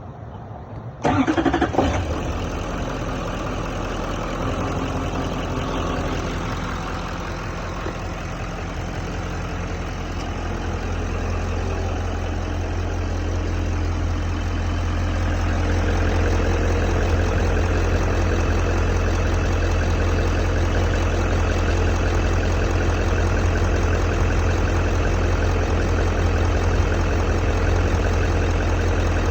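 A 2012 Chevrolet Silverado 2500HD's engine started from cold, catching suddenly about a second in, then idling steadily; the idle grows a little louder partway through and settles.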